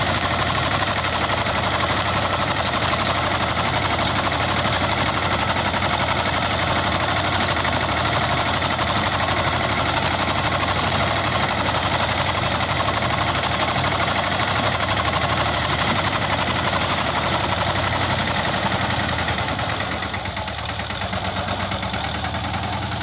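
Captain 200 DI mini tractor's diesel engine running steadily with a knocking rattle, getting a little quieter for the last few seconds.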